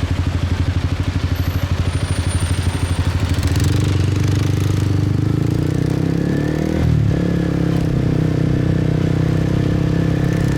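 Motorbike engine under way: it pulses at low revs, then about three and a half seconds in it pulls up into a smooth, slowly rising note. It dips briefly about seven seconds in, then runs steadily.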